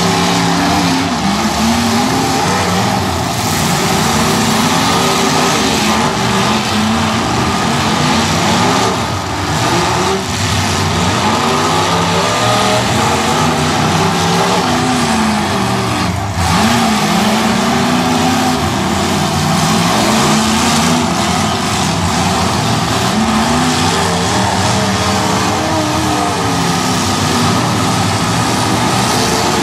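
Several demolition derby cars' engines revving at once, their pitches rising and falling over one another as the cars speed up, slow and reverse in the arena.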